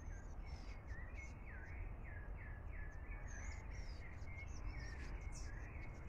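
Small birds chirping: a quick run of short falling notes, about three a second, then scattered higher calls, over a steady low rumble.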